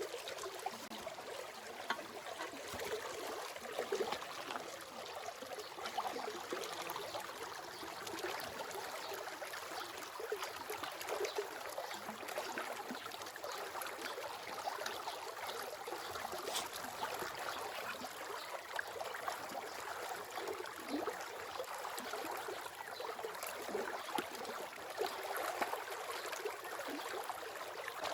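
Water running steadily in a small stream, a continuous babbling trickle.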